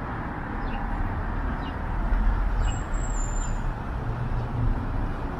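Road traffic on a city street: a steady rush of passing cars and a low engine rumble that swells as a heavier vehicle goes by about two seconds in. A brief, thin high-pitched tone sounds around the middle.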